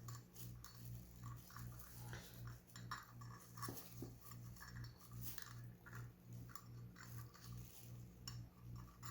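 Faint rustling and light clicking of wiring and plastic parts being handled as the wires are fed through a car side mirror's mounting base, over a low hum that pulses about three to four times a second.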